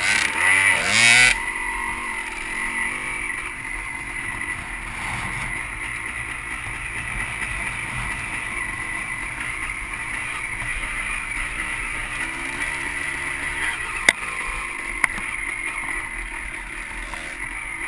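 Dirt bike engine revving hard for about a second, then running at a steady pitch while riding. Two sharp knocks come about a second apart near the end.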